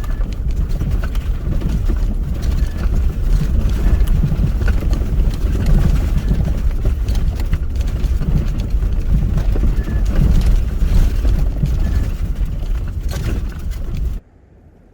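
Strong wind buffeting the microphone: a loud, continuous low rumble with scattered knocks. It cuts off abruptly near the end.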